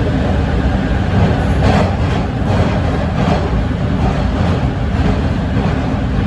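Interior rumble of a TTC T1 subway car running along the track: a steady low rumble with a few faint clacks a couple of seconds in.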